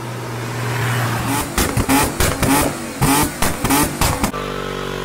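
Car engine revved in a series of short, sharp blips with loud exhaust pops and cracks. It cuts off suddenly about four seconds in and gives way to a steady drone.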